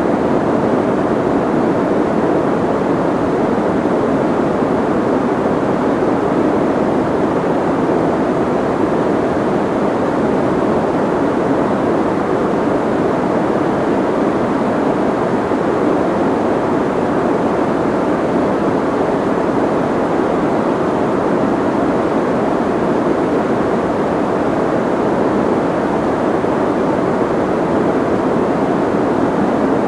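Soft white noise: a steady, even hiss, muffled, with most of its weight in the low middle and little high end, unchanging throughout.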